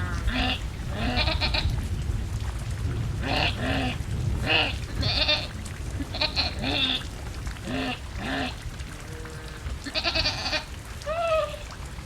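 Farm animals bleating: about a dozen short calls in irregular succession over a steady noise of rain.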